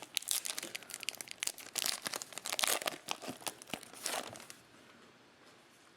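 Plastic-foil trading-card pack wrapper crinkling and being torn open: a dense run of crackles that stops about four and a half seconds in.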